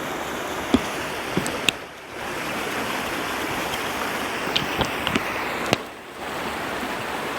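River water rushing steadily over a shallow bed, with a few small knocks and clicks. The rushing sound drops briefly twice, about two seconds in and again near six seconds.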